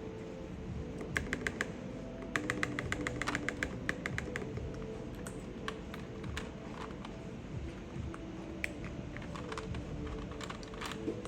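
Keys of a mechanical keyboard being typed in quick bursts: a short run of four clicks, then a fast string of key presses, then scattered single presses.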